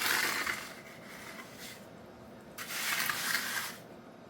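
Trowel scraping across freshly poured wet concrete in long strokes: one at the start and another about two and a half seconds in, each a drawn-out hiss.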